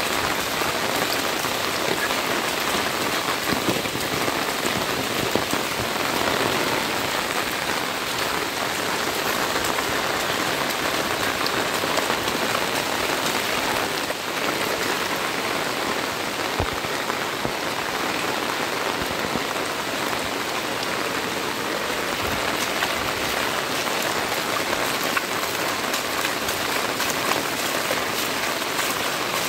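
Heavy rain falling steadily onto a flooded road, the drops splashing on the standing water.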